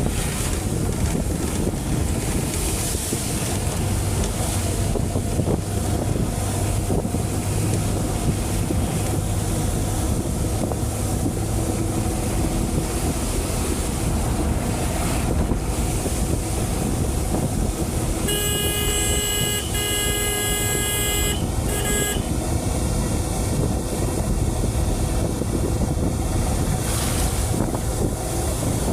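Steady heavy rain. About eighteen seconds in, a bright horn-like tone with several pitches sounds for about four seconds, broken by short gaps.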